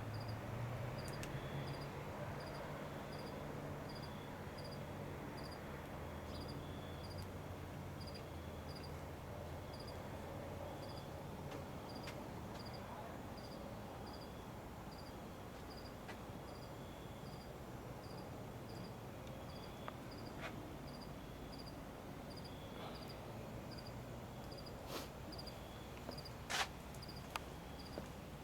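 Steady low rumble with a cricket chirping, a short high chirp about once a second, and a few sharp clicks near the end.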